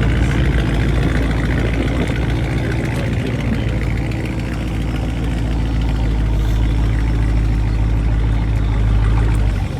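Car engine and exhaust running steadily with a deep, low drone. The drone drops off abruptly near the end.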